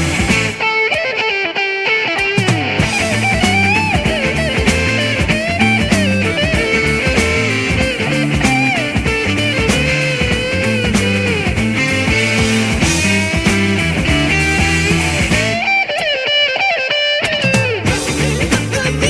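Psychedelic rock instrumental: an electric guitar lead with bending notes over bass and drums. The bass and drums drop out briefly about a second in and again near the end, leaving the guitar.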